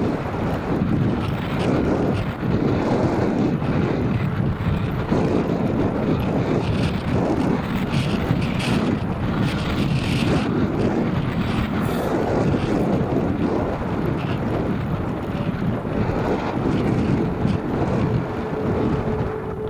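Strong gusting wind buffeting the microphone, a heavy rumbling noise that surges and eases.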